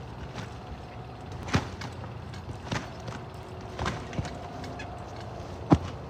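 Trampoline bed thumping with each bounce, about one landing a second, over a steady hiss of rain.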